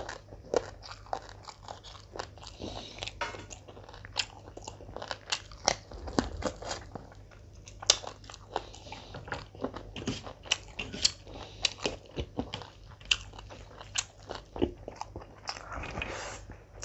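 Close-miked, wet chewing and mouth sounds of a person eating mutton biryani by hand, a dense, irregular run of smacks and clicks, mixed with fingers squishing rice on a steel plate.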